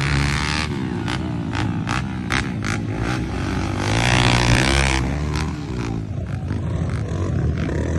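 Off-road motorcycle engine revving up and down under throttle. A run of sharp clicks and knocks comes about one to three seconds in, and a rush of noise follows around four to five seconds.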